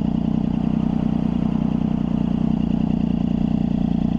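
Triumph Daytona 675's three-cylinder engine idling steadily at low revs, with an even, fast pulse and no revving.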